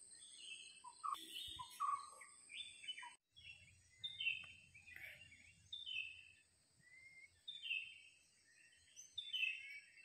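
Birds calling in short, repeated chirping phrases about once a second, over a steady high-pitched whine. The sound cuts out briefly about three seconds in.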